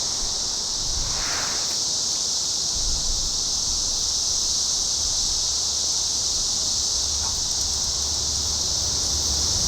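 Loud chorus of cicadas: a continuous, high, even buzz with no breaks, and a low rumble underneath from about three seconds in.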